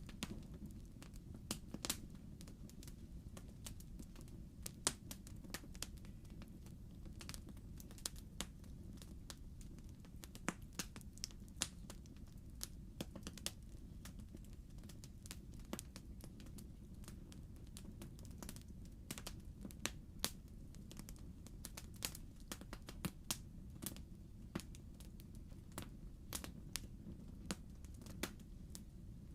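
Wood fire crackling in a fireplace: irregular sharp pops and snaps, several a second at times, over a steady low rumble of the burning fire.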